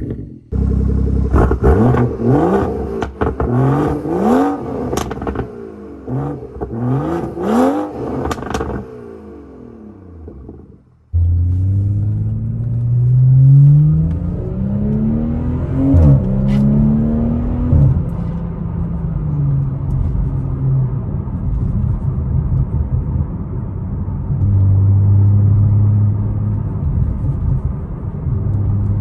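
BMW 340i's turbocharged 3.0-litre inline-six through a straight-piped exhaust, muffler and resonators deleted, revving up again and again in quick rising sweeps with crackles over the top, then fading away. About eleven seconds in the sound cuts abruptly to the car pulling hard through a few gears, then settling into a steady exhaust drone.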